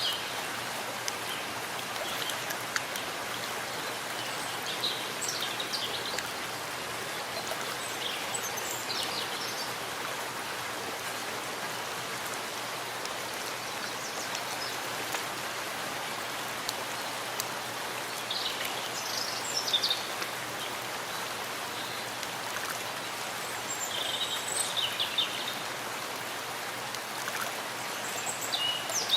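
Steady rain falling in a forest, an even rushing hiss of drops. Short clusters of bird calls come through a few times, about five, eight, nineteen and twenty-four seconds in.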